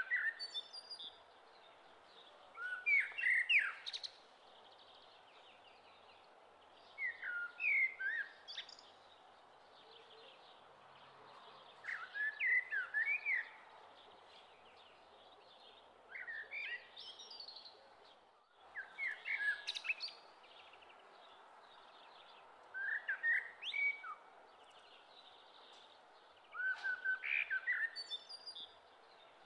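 A songbird singing short chirping phrases of quick rising and falling whistles, repeated every three to four seconds, over a steady faint hiss.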